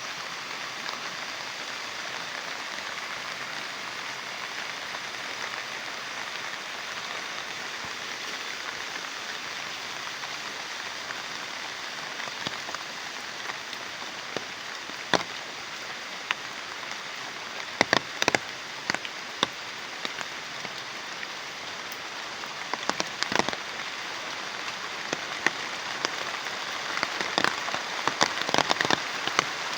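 Heavy rain falling in a steady hiss. From about halfway through, sharp, close drop taps cut through it, coming more and more often near the end.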